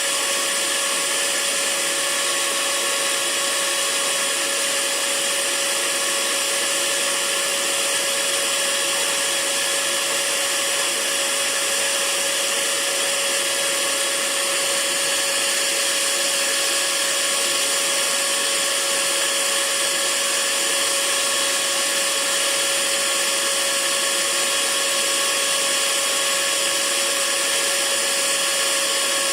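Hair dryer running steadily: a constant rushing hiss of air with a steady motor whine.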